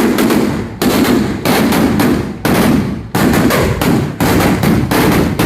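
Fireworks going off in a rapid string of loud bangs, a new blast about every half second to a second, each trailing off in a short rumble.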